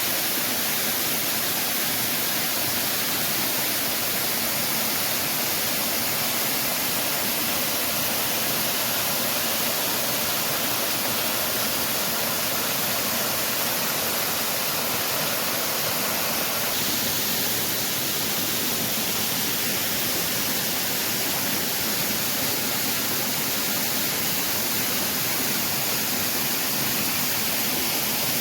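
Waterfall close by: a steady, dense rush of falling water, its tone shifting slightly about two-thirds of the way through.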